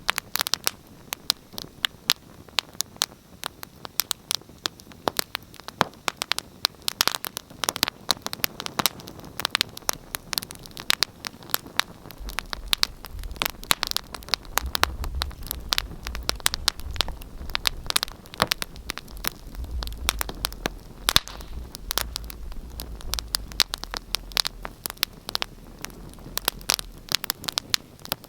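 Fire crackling in a fireplace: a dense, irregular run of sharp pops and snaps over a soft hiss. A low rumble comes in about halfway through and fades out near the end.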